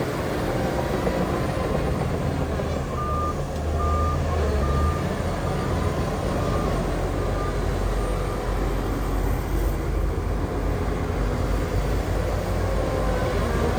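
Heavy diesel earthmoving machine engine running steadily, with a reversing alarm beeping about once every two-thirds of a second from about three seconds in, fading out after a few seconds.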